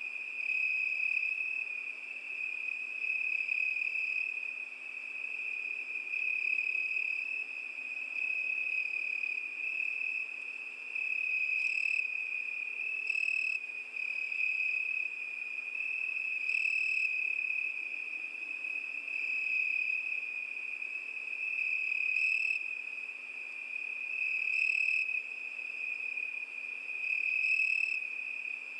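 Crickets chirping in a steady high trill, swelling and fading every two to three seconds.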